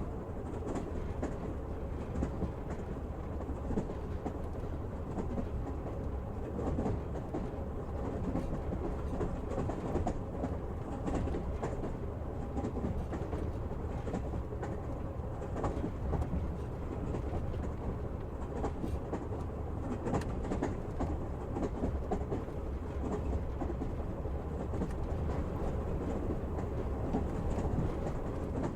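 Moving passenger train heard from inside the carriage: a steady low rumble with the wheels clicking over the rail joints.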